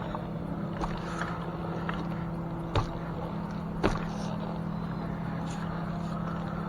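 An engine running steadily with a low hum, under a wash of wind noise, with three sharp clicks or knocks scattered through it.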